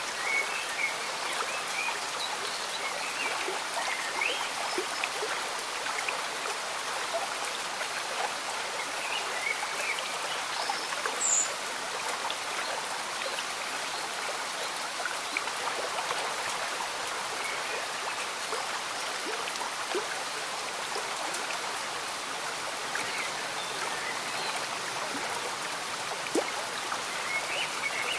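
Steady light rain falling with a gently bubbling stream and many small drips. Faint short high chirps come in now and then.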